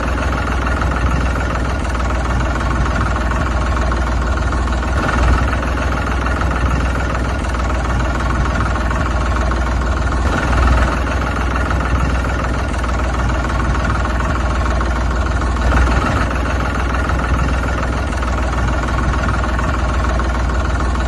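Tractor engine idling steadily, with a brief swell about every five seconds.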